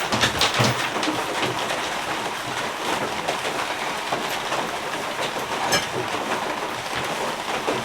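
Heavy rain falling steadily, with a few light clicks and knocks in the first second.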